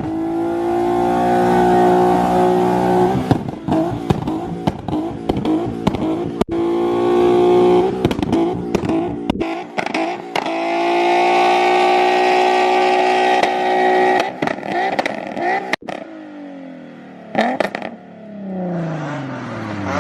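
Modified car engine revving hard under full acceleration, its note held high in three long pulls broken by brief gaps, with many sharp pops. Near the end the engine note falls away steadily.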